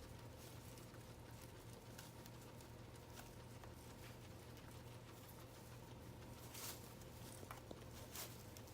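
Guinea pigs chewing and rustling hay: faint, irregular crunching clicks, with a few louder rustles in the last few seconds.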